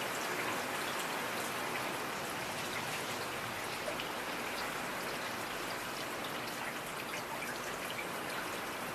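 Steady rain: a constant hiss with many separate drops ticking on a hard surface.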